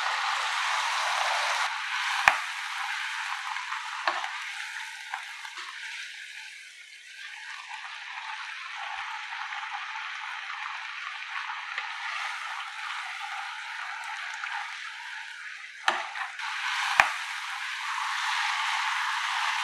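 Shredded chicken sizzling in a hot kadai as chicken stock is poured over it. The hiss quietens to a simmer partway through, then grows louder again near the end as the mixture is stirred. A few sharp knocks of a utensil on the pan.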